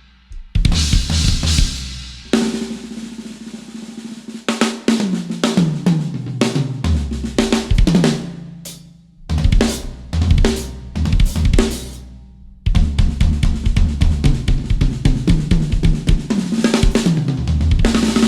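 Drum kit played hard: snare, bass drum, cymbals and hi-hat, with fills stepping down the toms. The playing breaks off briefly about nine and twelve seconds in, letting the kit ring away before coming back in.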